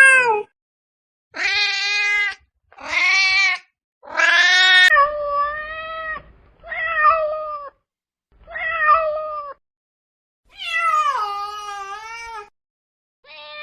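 Domestic cat meowing over and over: a string of about eight long, drawn-out meows with short silent pauses between them.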